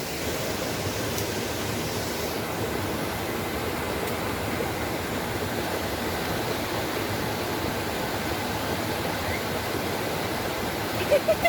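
Steady, even rush of flowing water, like a river or stream running close by. A voice starts right at the end.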